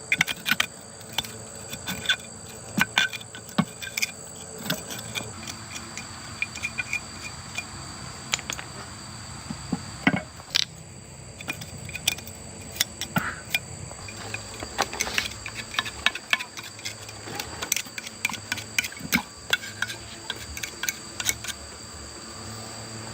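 Irregular clicks, clinks and knocks, several a second at times, of hand work on a machine, over a steady high insect drone.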